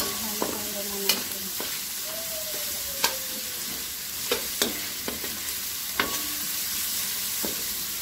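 Chicken pieces and chopped onion sizzling in oil in a metal wok while a metal spatula stirs them, clinking and scraping against the pan every second or so at uneven intervals.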